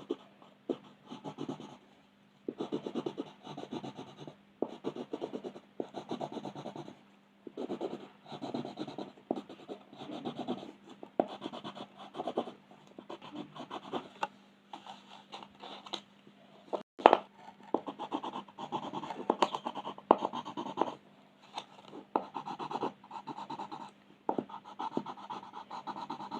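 Colouring on a paper coloring page: quick scratchy back-and-forth strokes in bursts of a second or two, with short pauses between. A single sharp tap comes about 17 seconds in, over a faint steady hum.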